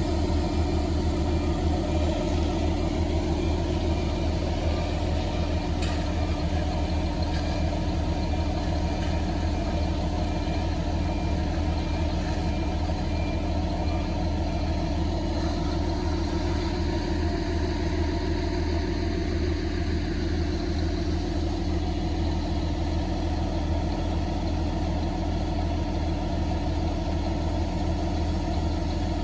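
Truck engine running steadily at an even, unchanging speed.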